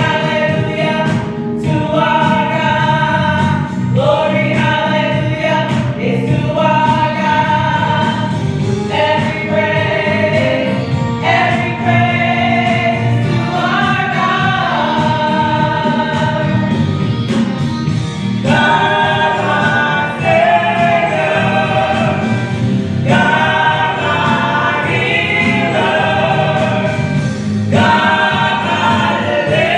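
Gospel choir singing over instrumental accompaniment.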